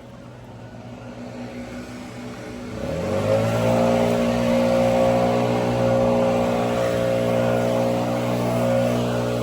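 An engine speeds up about three seconds in, its pitch rising, then runs steadily at high speed.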